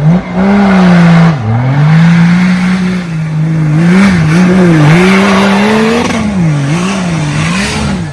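Off-road vehicle engine revving hard at high rpm. The pitch drops sharply about a second and a half in, then climbs back and wavers up and down several times as the throttle is worked.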